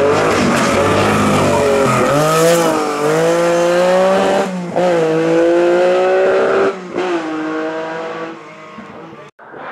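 Race car engine at full throttle on a hillclimb, the pitch rising in each gear with quick upshifts about two, four and a half and seven seconds in, then fading away as the car moves off. The sound cuts off abruptly near the end.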